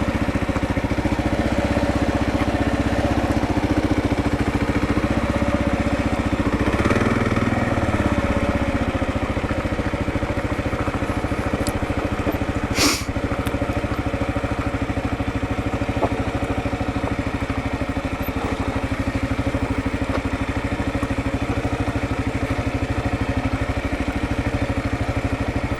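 2022 Kawasaki KLR650's single-cylinder engine running steadily at low revs, with a brief change in engine note about seven seconds in and a short sharp hiss about halfway through.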